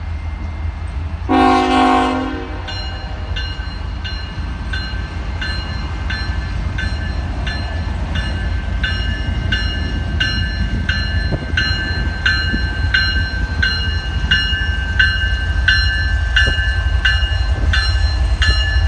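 Tier 4 GEVO freight locomotive's air horn sounding one short blast about a second in. A bell then rings steadily, about one and a half strikes a second, over the low rumble of the approaching diesel locomotives, which grows louder as they near.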